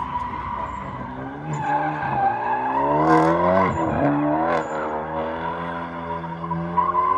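Car doing a burnout: tyres squealing with a steady high screech while the engine revs hard. The engine pitch climbs from about a second and a half in and drops sharply around four seconds.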